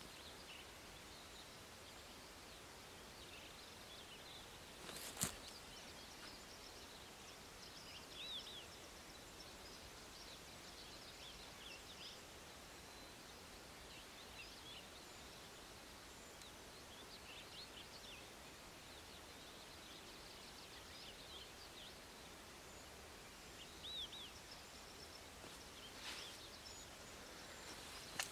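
Near silence with faint, scattered bird chirps every few seconds, and one short sharp click about five seconds in.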